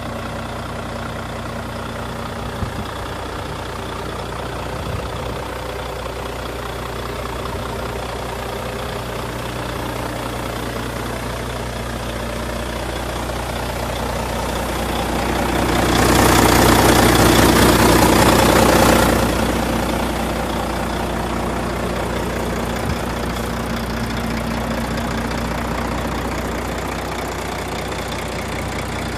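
Volvo FH12 460 truck's 12-litre six-cylinder diesel idling steadily. Just past the middle it swells to a louder, rushing surge for about three seconds, then settles back to idle.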